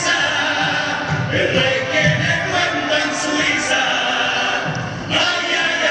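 Carnival comparsa chorus of male voices singing a popurrí in harmony, with a short break about five seconds in before the next phrase begins.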